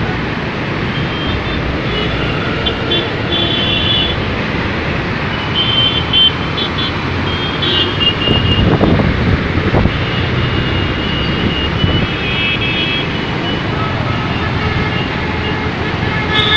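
Road traffic, with a steady rumble of engines and tyres and short high-pitched tones that come and go every second or two. The rumble swells for a couple of seconds just past the middle, as if a vehicle passes close by.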